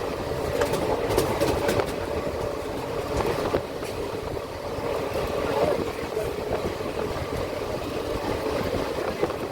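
Passenger train running, heard from on board: a steady rumble of steel wheels on the rails, with a run of sharp clicks and rattles in the first couple of seconds and a few more later.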